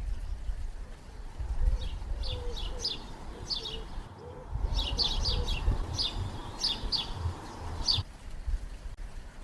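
Small birds chirping: a run of short, quick, falling chirps, with a brief gap midway, over a low rumble. The chirping stops abruptly about eight seconds in.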